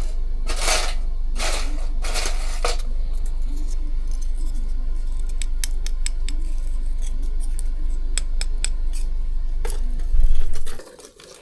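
Pieces of homemade bamboo charcoal clinking and scraping against a metal cookie tin as they are handled. A few short scrapes come first, then a run of sharp, light clicks, over a steady low rumble.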